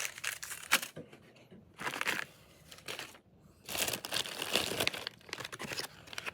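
Plastic MRE packets and pouches crinkling as they are handled, in several bursts, the longest about four seconds in.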